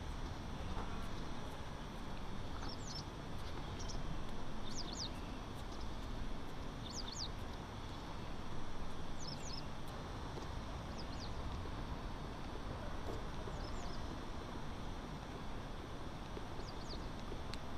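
Small birds chirping, short high calls, often in quick pairs, every second or two over a steady background hum of city noise.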